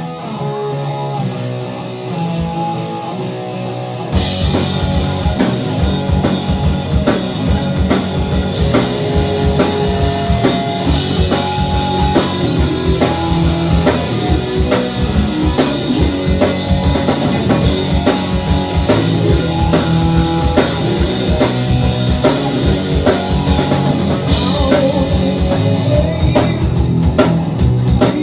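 Live rock band playing an instrumental passage. For the first four seconds a guitar plays alone; then the drum kit and the rest of the band come in with a steady, driving beat.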